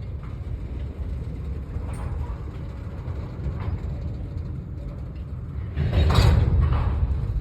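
A train rolling past, a steady low rumble with light clicks and knocks, rising to a louder noisy swell about six seconds in.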